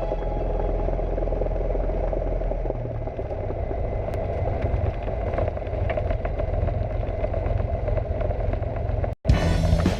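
Cessna 172 piston engine and propeller running steadily. The sound drops out for an instant near the end, then resumes.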